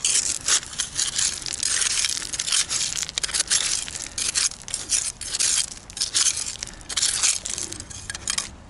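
Crunching and scraping of river gravel and stones being dug through in search of a metal detector target, in quick, irregular strokes.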